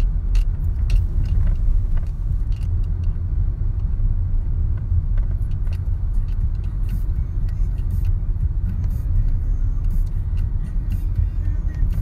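Car driving on a town street, heard from inside the cabin: a steady low road and engine rumble, with scattered light clicks and rattles.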